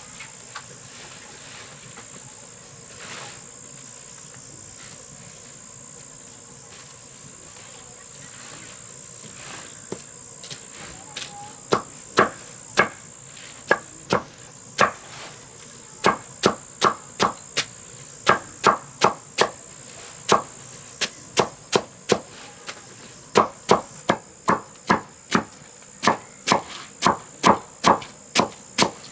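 Repeated blows of a hand tool, sharp strikes about two a second in runs with short pauses, starting about 12 seconds in. Under them, a steady high drone of insects.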